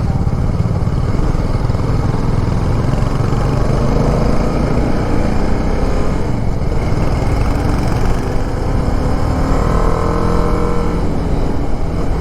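Motorcycle engine running steadily under way, with heavy low wind rumble on the camera's microphone.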